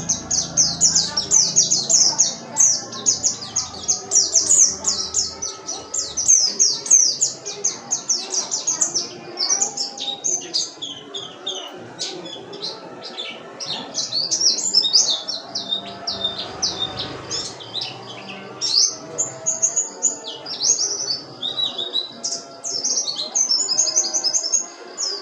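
White-eye (pleci) singing vigorously: a fast, continuous, high-pitched twittering song of rapid chirps and short trills, without pause.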